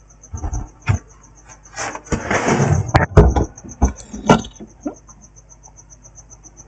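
Clicks and knocks of a laptop being handled on a workbench, with a short scraping rustle about two seconds in and a brief squeak near the middle.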